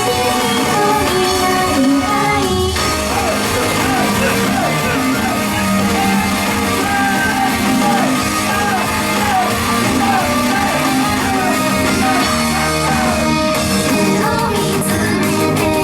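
Idol pop song performed live, loud and steady, with the group's singing running through the middle of it.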